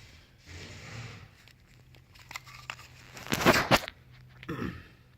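Handling noise from parts being picked up and moved: soft rustling and scattered light clicks, with a loud crinkling rustle about three and a half seconds in and a smaller one just after.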